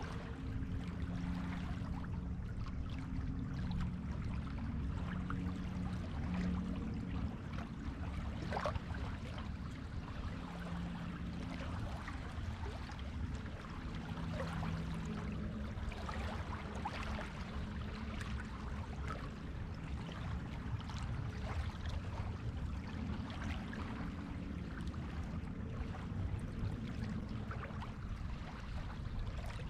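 Waves washing up a beach, with a steady hiss and crackling fizz of water running over sand and shingle. A faint low hum comes and goes underneath.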